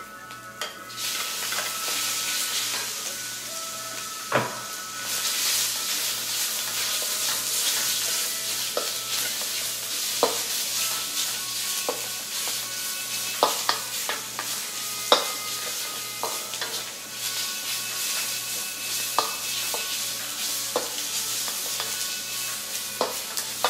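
Diced chicken breast sizzling in oil in a wok with onion and garlic, the sizzle growing about a second in, while a spatula stirring the pieces clinks against the wok now and then.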